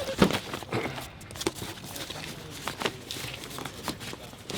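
Gear being handled and moved about: scattered knocks and clunks with rustling and crinkling in between.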